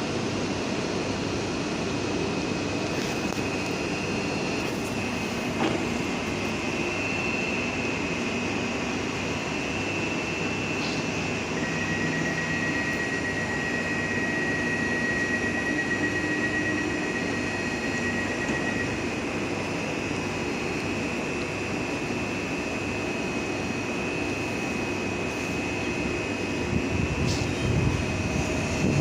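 PESA Dart ED161 electric multiple unit humming steadily, with a steady high whine; a second high tone joins for several seconds in the middle, and a few low thumps come near the end.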